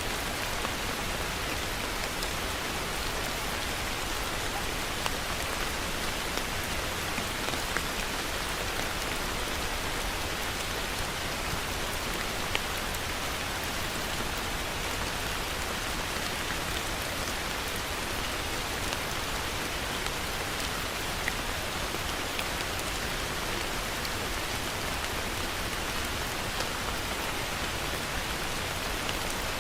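Heavy rain falling steadily in an even hiss, with scattered drops ticking on a surface and a few slightly louder drips.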